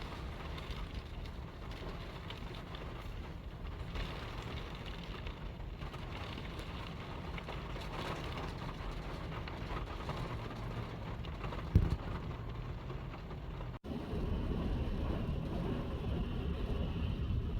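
Strong storm wind blowing and buffeting the microphone with a steady low rumble, with a single sharp knock about two-thirds of the way through. After a momentary break the wind rumble is louder.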